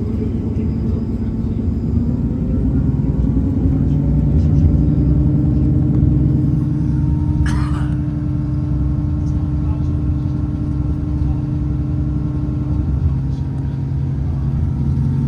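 Cabin sound of a Class 158 diesel multiple unit under way: a steady low rumble of wheels on rail with the diesel engine's hum, whose note rises a few seconds in and then holds. About halfway through, a brief high squeal cuts across it.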